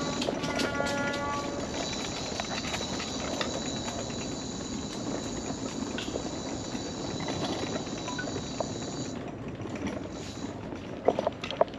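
Mobility scooter rolling along wooden boardwalk planks: a steady rumble with a rapid run of small clacks as the wheels cross the board joints, and a high motor whine that cuts off about nine seconds in. A few knocks come near the end.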